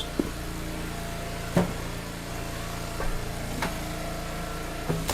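Engine of a firewood log splitter running steadily, with a few sharp knocks of split wood pieces.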